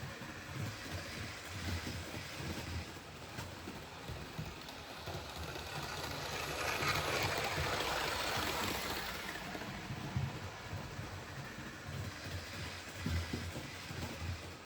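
Model railway train running along the track, a steady low rumble that grows louder as the train passes close by about seven to nine seconds in, then fades.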